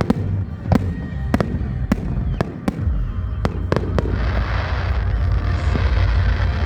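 Fireworks exploding: a quick irregular run of sharp bangs for about four seconds, then a dense, continuous rushing noise with no separate bangs.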